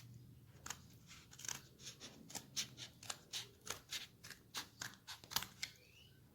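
Scissors snipping through a cardboard tube in a quick, uneven run of cuts, about three a second, cutting it into strips.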